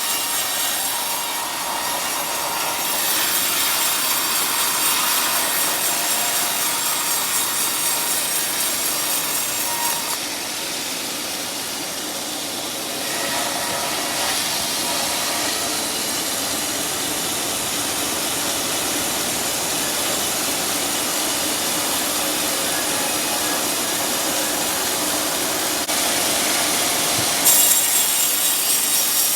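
Sawmill saw cutting through a teak log, a steady loud rasping whine that eases for a few seconds about ten seconds in and grows louder again near the end.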